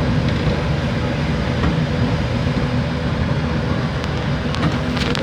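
Fishing boat's engine running steadily, a low rumble under a constant hiss of wind and sea.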